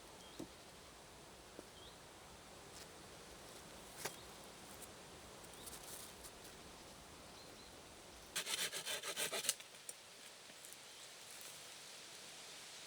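A short burst of rapid rasping strokes, about a second long, over a faint steady background, with a single light tap a few seconds earlier.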